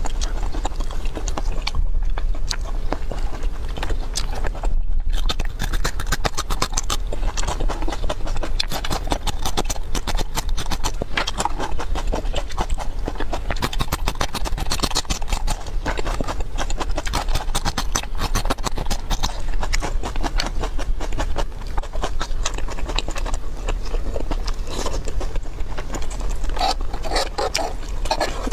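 Crunching and chewing of raw bitter melon slices: dense, rapid crisp crackles, over a steady low hum.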